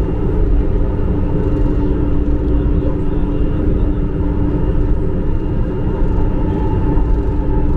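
MRT-3 light-rail train running at a steady speed, heard from aboard: a continuous rumble of wheels on rail with a steady motor hum over it.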